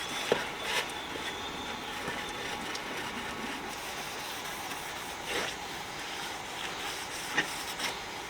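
Sheet-metal tool box parts being washed: a steady rush of water with a handful of sharp metal knocks as the parts are handled.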